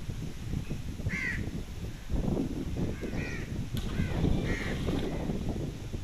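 A bird calling several times in short calls over a continuous low outdoor noise.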